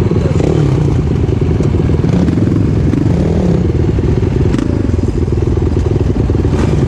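Single-cylinder off-road engine running steadily, close and loud, with a couple of sharp clicks late on.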